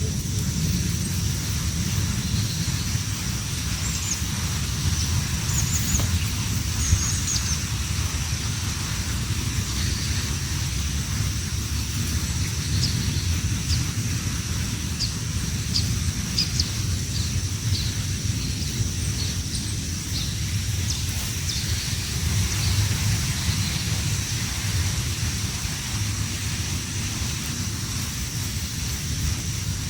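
Steady low rumble of wind on the microphone, with a constant high hiss, and scattered short, high bird chirps, mostly in the first half.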